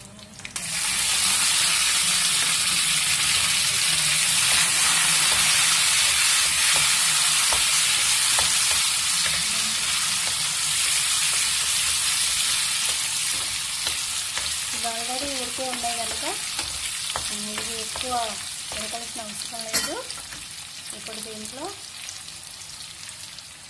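Boiled garlic cloves hitting hot tempering oil in a kadai: a loud sizzle that starts suddenly about half a second in and slowly dies down while a spatula stirs them. A single sharp knock on the pan comes near the end.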